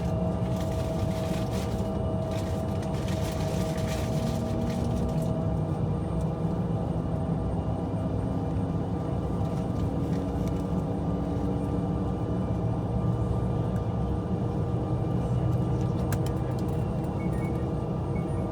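Jet aircraft cabin noise from an Embraer E175 waiting on the taxiway: a steady low rumble with a few held tones, one of them rising slowly in pitch.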